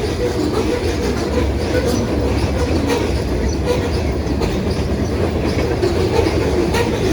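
Freight train rolling past: a steady rumble with repeated clacks of the wheels over the rail joints.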